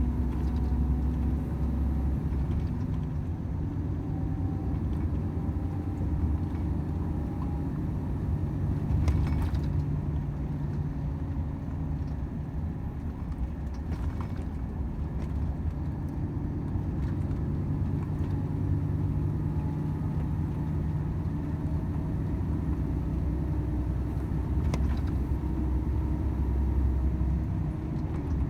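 Volvo FH 500 truck's 13-litre straight-six diesel running under way, a steady low rumble with road noise, the engine pitch shifting a little as speed changes.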